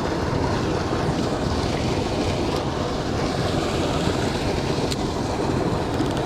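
Steady rushing of water pouring over a creek spillway, loud enough to drown out speech.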